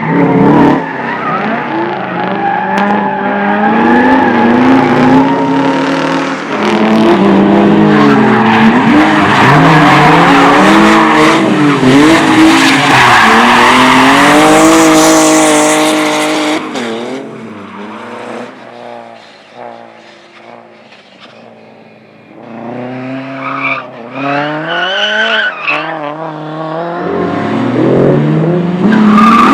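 Autoslalom competition car driven hard: the engine revs up and drops back again and again through gear changes and turns, with tyre squeal and skidding on the tarmac. It is loudest in the first half, fades away a few seconds after the middle, then comes back up near the end.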